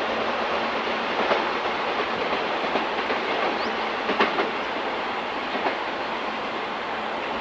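Train running through the station: a steady rolling rumble of wheels on rail, with a few sharp clicks as the wheels cross rail joints.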